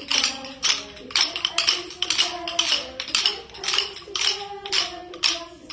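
Rhythm sticks being clacked and tapped by several children: a run of sharp, uneven clicks, several a second.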